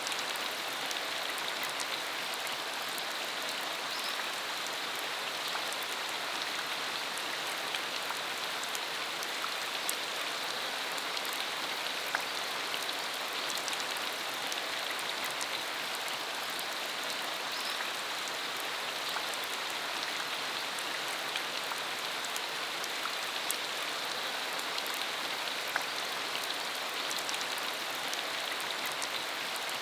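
Steady rain falling, an even hiss with the sharp ticks of single drops hitting a surface.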